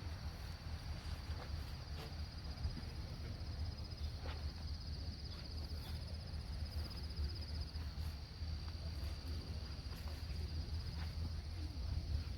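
Insects trilling in a steady, high, finely pulsing chorus, over a low rumble and a few faint clicks.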